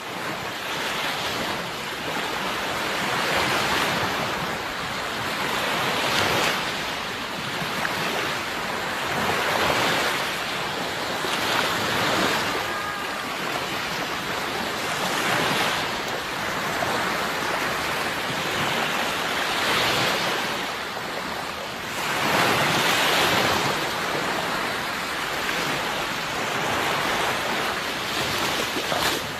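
Sea waves washing on a shore, surging and ebbing every few seconds, with the biggest surge about three-quarters of the way through.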